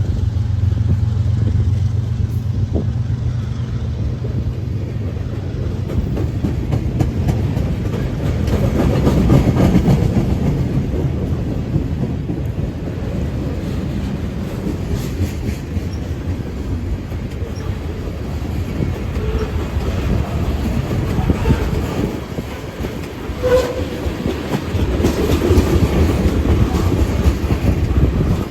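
A train rolling past, its wheels clattering steadily over the rail joints.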